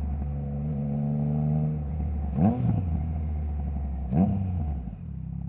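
Triumph Trident 660's three-cylinder engine idling through a Zard stainless full exhaust with the baffle removed, blipped twice with quick rises and falls in revs. The sound gets quieter near the end.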